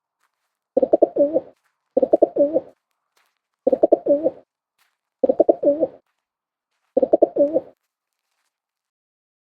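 Pigeon cooing: five short rolling coos, each a few quick low pulses, spaced one to two seconds apart.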